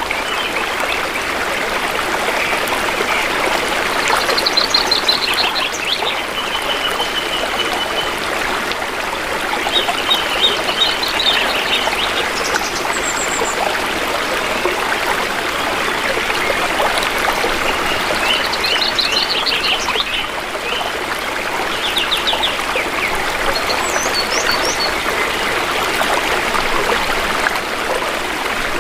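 Shallow stream flowing and trickling over rocks steadily, with forest birds calling in short, quickly repeated trills every few seconds.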